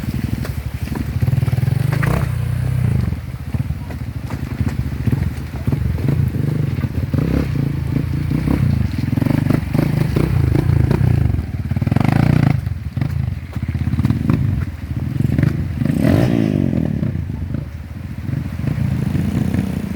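Honda CRF150L's single-cylinder four-stroke engine running as the bike is ridden, its note rising and falling with the throttle.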